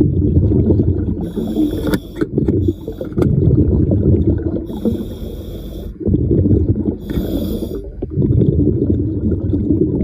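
A diver breathing underwater through a diving regulator: a hiss with each breath, three times, over a steady rumble of exhaled bubbles and water noise.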